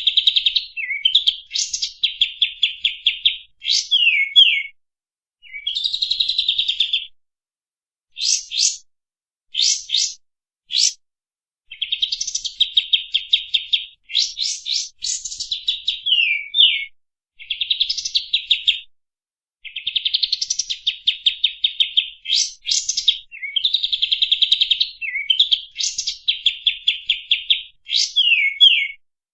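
A kapas tembak songbird singing in repeated phrases of fast chattering trills, each broken by short down-slurred notes, with brief pauses between phrases.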